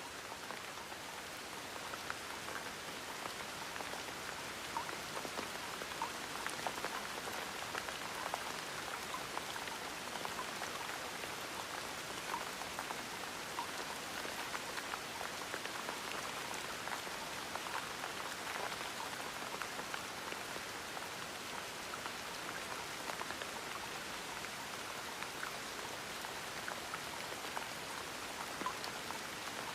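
Steady gentle rain, an even hiss of falling rain dotted with many small drop ticks.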